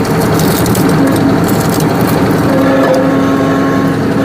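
Tractor engine running, driving a tractor-mounted hydraulic log splitter. A steady whine joins in about two and a half seconds in.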